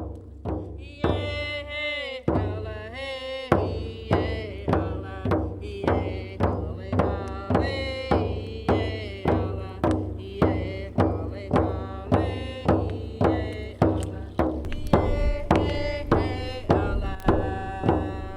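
Drum beating a steady pulse, about two strokes a second, under voices chanting a song.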